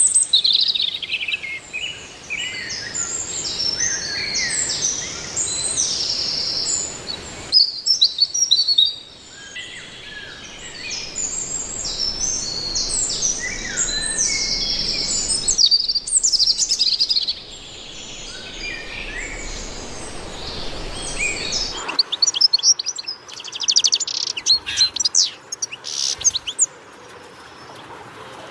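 Birds chirping and singing, many short high calls overlapping. The sound changes abruptly a few times, and in the last few seconds it becomes rapid, sharp chirping.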